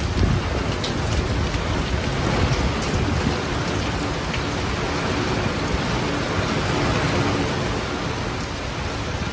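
Heavy rain pouring steadily, with scattered drops pattering close by and a low rumble of thunder underneath that is strongest in the first few seconds and eases later on.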